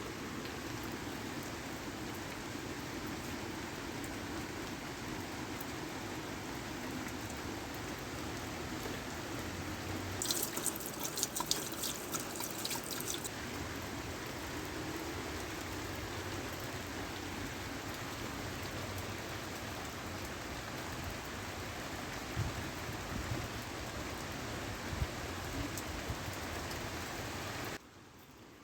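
Steady rain falling, with a cluster of sharp ticks for about three seconds some ten seconds in. The sound drops away abruptly near the end.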